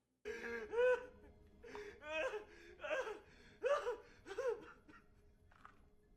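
A high-pitched voice laughing in a series of about six short calls, each rising and falling in pitch, over roughly four seconds, followed by a faint brief sound.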